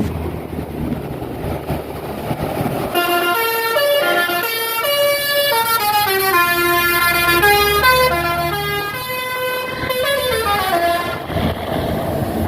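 Motorboat engine running with wind rush, and from about three seconds in a short melody of clear stepped notes, falling and rising in pitch, plays over it for about eight seconds.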